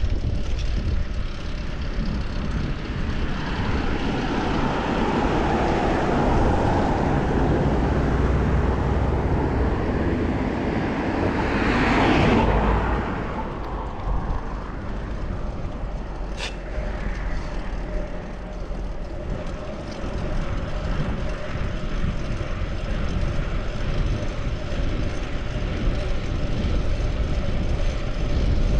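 City traffic heard from a bicycle: a motor vehicle passes, growing louder to a peak about twelve seconds in and then fading, over steady low wind rumble on the microphone. A brief sharp click sounds about sixteen seconds in.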